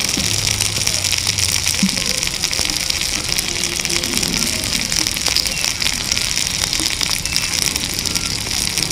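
Tomato pieces sizzling in hot oil in a tiny metal frying pan: a steady hiss with scattered small crackles.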